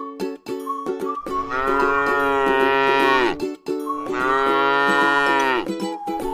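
Cow mooing twice: two long calls, each dropping in pitch as it ends, over light plucked-string music.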